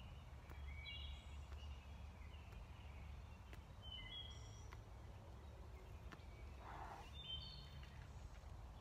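Faint bird calls: several short runs of high chirps at intervals, over a low steady background rumble.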